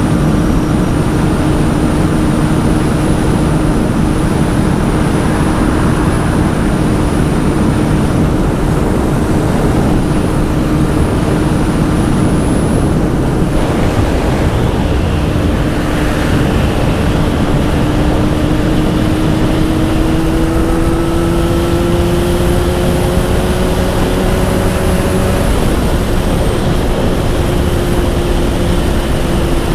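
Honda CBR1000 inline-four with a Two Brothers aftermarket exhaust running at a steady cruise, engine note slowly rising from about two-thirds of the way in, then easing off near the end, with heavy wind rumble on the helmet-mounted mic.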